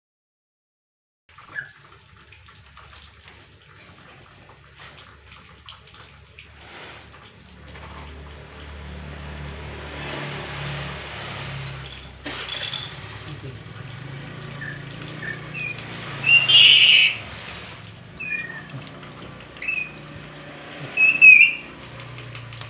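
A pet lory making short squeaky chirps over the second half, with two loud harsh screeches about 16 and 21 seconds in, over a steady rushing noise and low hum.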